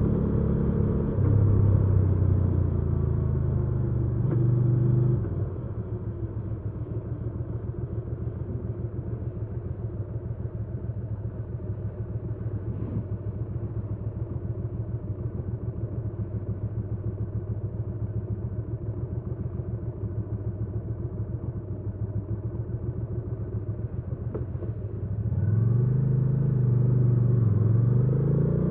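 Hyosung GV300S Aquila 300's V-twin engine. It runs at speed with shifting pitch for the first few seconds, then drops to a steady idle with a fast, even pulse for about twenty seconds. Near the end it revs up again, pitch rising, dipping and rising, as the bike pulls away.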